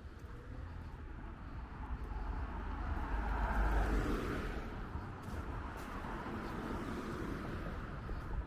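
A car passing by, its engine and tyre noise swelling to a peak about four seconds in and then fading away.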